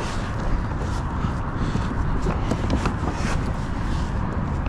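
Wind buffeting the microphone with a steady low rumble, and scattered light knocks and rustles over it.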